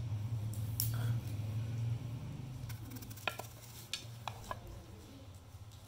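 Scattered light clicks and taps of a knife cutting an apple into a square piece on a board or plate, over a low steady hum that weakens about two seconds in.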